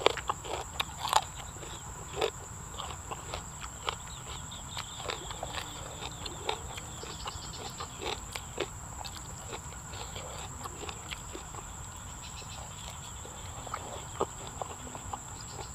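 Close-up wet chewing and lip-smacking of a person eating raw beef larb and sticky rice with the mouth full: irregular soft smacks and clicks, a few louder ones near the start and around the middle, over a steady thin high-pitched whine.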